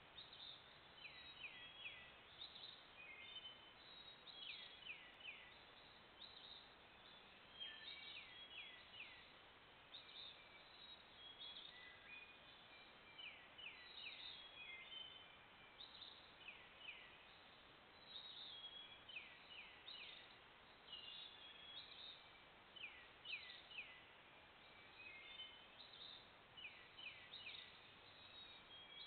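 Birds singing, picked up faintly through a trail camera's microphone: short runs of quick downward-sweeping chirps recurring every second or two over a steady hiss.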